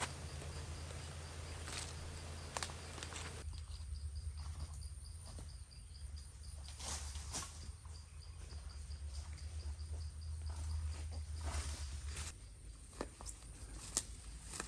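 Outdoor ambience with insects trilling at a steady high pitch, scattered clicks and rustles of someone moving about, and a low steady rumble that fades about twelve seconds in.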